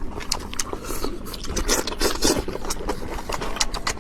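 Close-miked eating sounds: wet chewing and mouth noises with many quick sharp clicks and crunches, and a longer noisy stretch around the middle like slurping.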